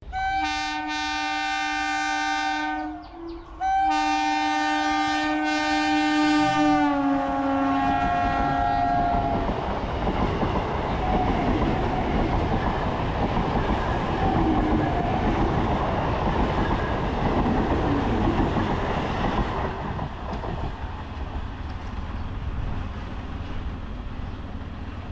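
Suburban electric multiple-unit local train sounding two long horn blasts, the second dropping in pitch as the train passes. Then the steady rumble and wheel clatter of its coaches rolling past on the rails, fading near the end.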